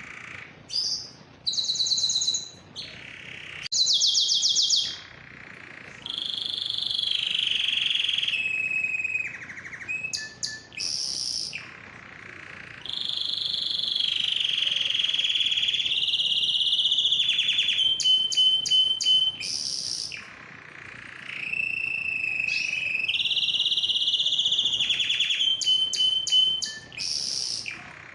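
Male domestic canary singing: long rolling trills repeated in phrases of a few seconds with brief pauses, plus a quick run of sharp clicking notes about two-thirds of the way through.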